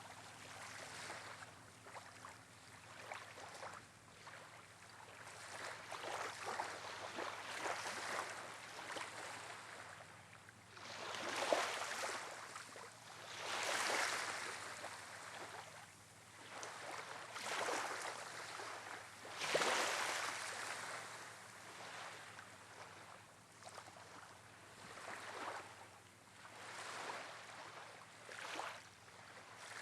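Wind and wind-driven water rushing, rising and falling in uneven swells every couple of seconds, with the strongest surges about eleven, fourteen and twenty seconds in.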